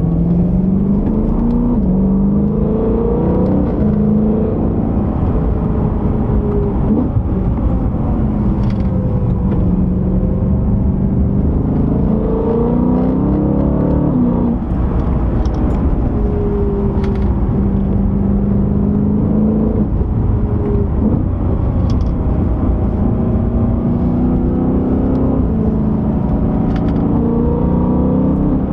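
BMW E92 M3's naturally aspirated 4.0-litre V8 running hard under acceleration, its note climbing in pitch and dropping back at each gear change, over and over, with a few short sharp clicks along the way.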